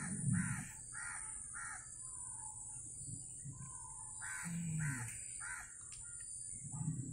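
A bird calling in two runs of harsh, repeated caws, about four a second: one run at the start and another about four and a half seconds in. A steady high-pitched drone, like insects, runs underneath.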